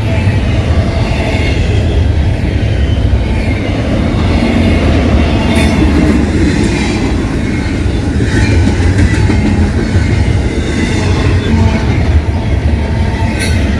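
CPKC freight train rolling past at close range: a steady, loud rumble of cars on the rails with a few sharp wheel clicks over the rail joints.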